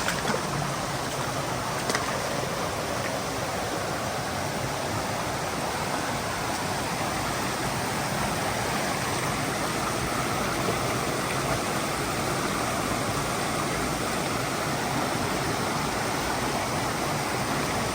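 Mountain stream water rushing steadily over boulders, a constant even roar with no change in level.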